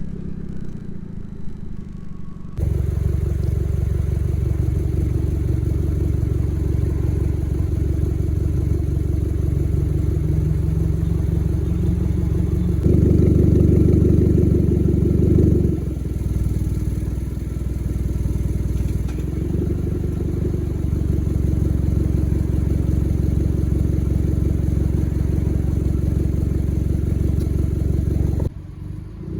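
Honda Civic engine with its muffler and resonator deleted, running loud and low through the straight exhaust. It cuts in about two and a half seconds in, rises in pitch, gets loudest for a few seconds about halfway, then settles back to a steady note until it stops abruptly near the end.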